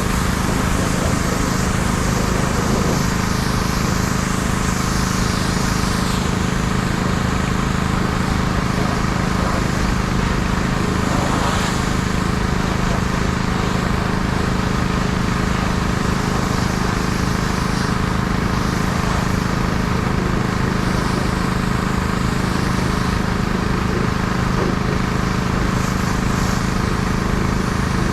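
A pressure washer running steadily, its motor holding a constant hum under the hiss of the water spray, which swells and fades as the jet moves across the truck.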